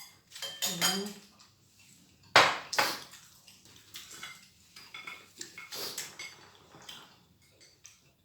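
Cutlery clinking and scraping against dishes during a meal: scattered clicks, with a loud double clatter about two and a half seconds in.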